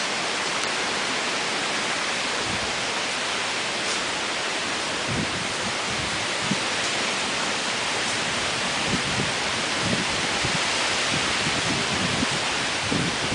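Steady hiss of heavy rain and wind from a severe thunderstorm, with a few faint low thumps.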